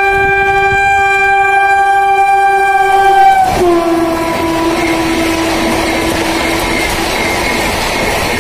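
Indian Railways electric locomotive sounding one long horn blast as it approaches at speed. About three and a half seconds in, the horn drops in pitch as the locomotive passes, then fades. After that the coaches pass with a loud, steady rushing and clatter of wheels on rail.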